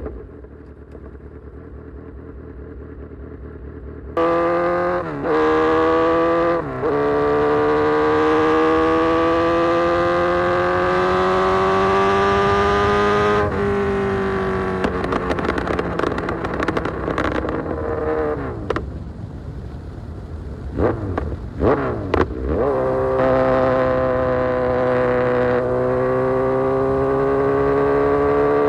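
Kawasaki Z900's inline-four through an Austin Racing full exhaust, accelerating hard through the gears: the pitch climbs in long pulls, broken by a quick dip at each upshift. In the middle it backs off, with a run of crackles and falling revs, then two or three quick throttle blips, before it pulls hard again.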